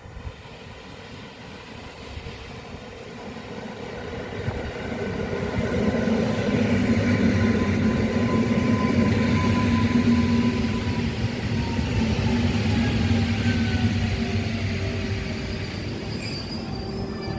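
EN57FPS electric multiple unit pulling into the station: its running noise swells as it approaches, is loudest as the cars pass close by, then eases while a faint whine falls in pitch as it slows.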